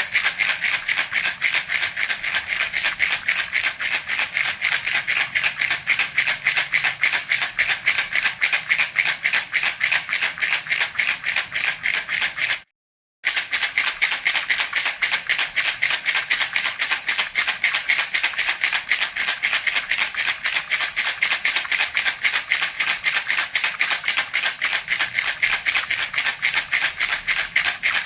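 Baby rattle (jhunjhuna) shaken steadily and rapidly, a continuous bright rattle of beads inside. About halfway through it cuts out for half a second, then carries on.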